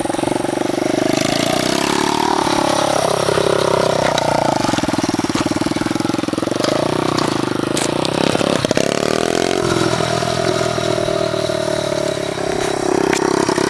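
Small pit bike engines running and being revved as the bikes are ridden, the pitch rising and falling repeatedly.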